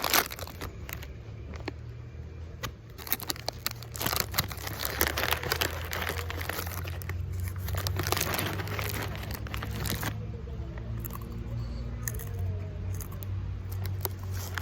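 Crinkling and crackling, as of something dry or plastic being handled, dense for about ten seconds and then dying away. A steady low rumble carries on underneath.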